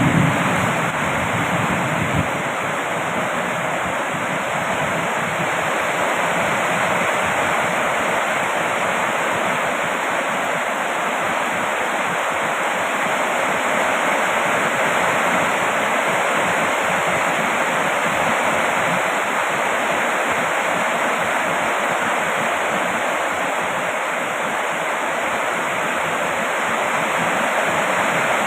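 Steady heavy rain: an even, dense hiss with no separate drops standing out. A low rumble fades out about two seconds in.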